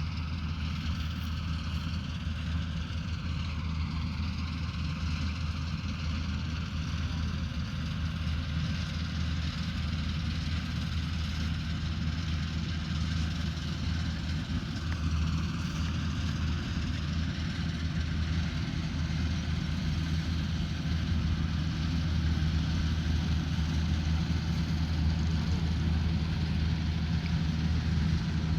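Combine harvester running steadily: a low, even engine drone with a higher rushing noise from the working machinery, growing a little louder toward the end.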